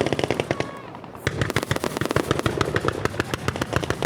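Aerial fireworks bursting in a rapid barrage of sharp cracking reports. There are a few scattered bangs at first, then about a second in they thicken into a dense, fast stream of crackles.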